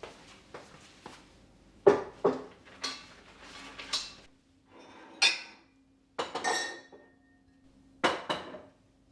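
Hard decor objects being handled and set down on a surface: a series of irregular knocks and clinks like crockery or glass, the loudest about two seconds in.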